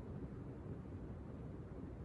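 Ceiling fan running at high speed: a steady, low whooshing of moving air with no breaks or changes.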